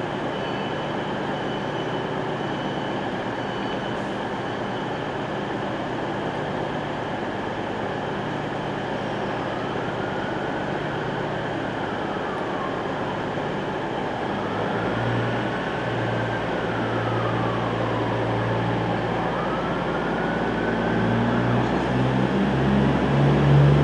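Steady station background noise, then about fourteen seconds in the low engine note of a diesel train comes in and grows louder, stepping up in pitch near the end.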